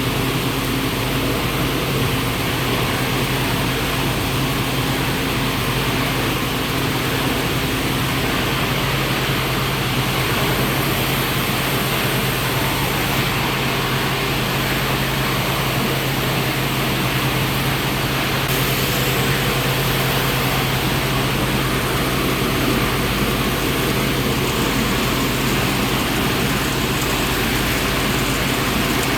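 Industrial recycling machinery running steadily: a constant low hum under an even mechanical noise, with no breaks or impacts.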